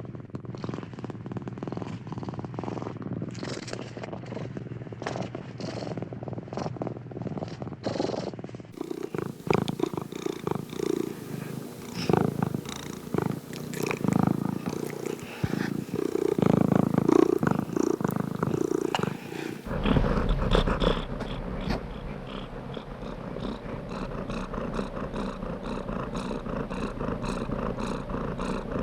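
Domestic cat purring close to the microphone in a steady, pulsing rhythm. The sound changes abruptly about 9 seconds in and again about 20 seconds in, where separate recordings are joined, and the middle stretch is louder and more uneven.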